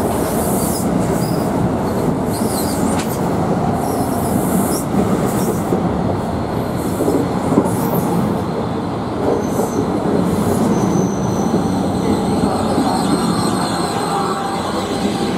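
NJ Transit Multilevel II push-pull train pulling into a station, its bilevel coaches rolling past with a steady loud rumble of wheels on rail. Short high-pitched squeals come from the running gear over the first few seconds, and a thin, steady high squeal comes in about two-thirds of the way through as the train slows.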